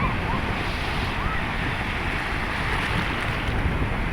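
Steady rushing noise of wind and surf, with a few short faint chirps over it.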